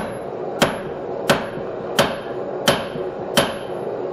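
Blacksmith's hand hammer striking a steel bottom fuller seated in the anvil's hardy hole: six even blows about two-thirds of a second apart, each with a short, high metallic ring.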